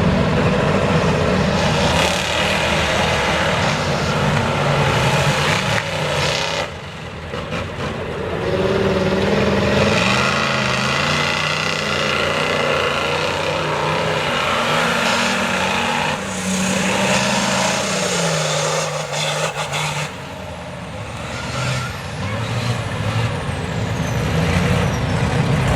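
Mega truck engine revving hard and easing off, over and over. The level drops briefly about seven seconds in and again about twenty seconds in.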